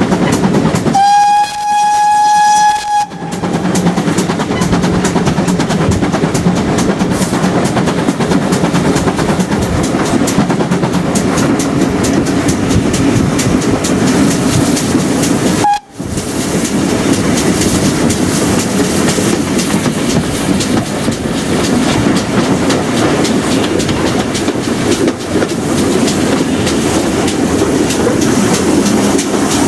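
A train running along the track with steady wheel and rail noise and a clickety-clack over the rail joints. About a second in it gives one held, single-note whistle blast lasting about two seconds.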